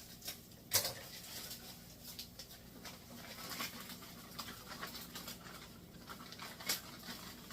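Light crackling and ticking from white wine simmering in a hot skillet, with two sharper clicks, one just under a second in and one near the end, over a steady low hum.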